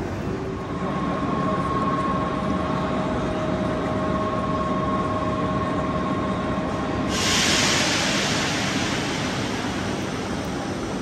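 Railway station platform noise with trains standing at the platforms: a steady hum with two tones, then a sudden loud hiss of air about seven seconds in that slowly dies away.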